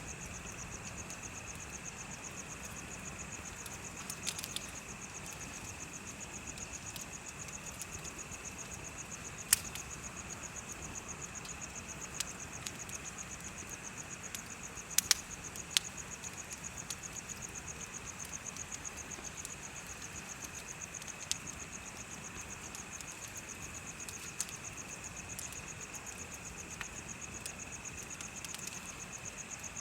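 Insects chirping in a steady, fast-pulsing high trill, with a second steady lower chirp beneath it. A bonfire crackles underneath with scattered sharp pops, a few of them louder, about ten and fifteen seconds in.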